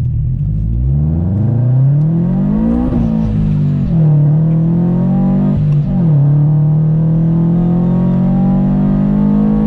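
Supercharged Subaru BRZ flat-four with a catless header and single-exit exhaust, accelerating hard through the gears. The revs climb, fall at a shift about three seconds in, climb again, fall at a second shift about six seconds in, then build steadily.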